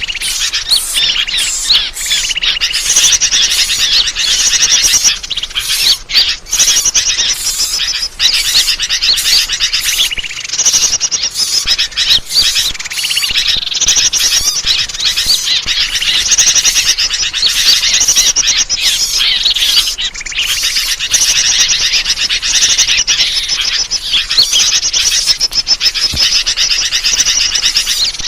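Dense, continuous chirping and chattering of many small birds calling over one another: a bird-lure recording (suara pikat) used to draw wild birds in.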